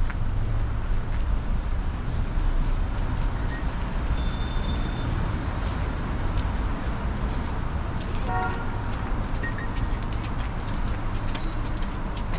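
Steady road traffic, with wind rumbling on the microphone. A short car horn toot comes about eight seconds in.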